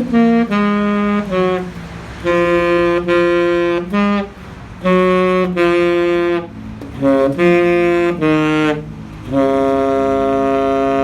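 Saxophone playing a melody in short phrases, finishing on a long held note.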